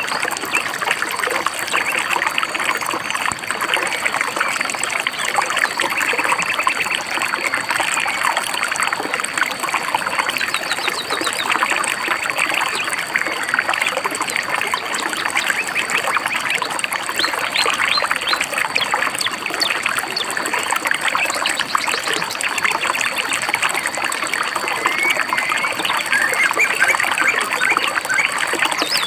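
A shallow stream babbling and trickling steadily over rocks, with birds chirping in short high bursts here and there above the water.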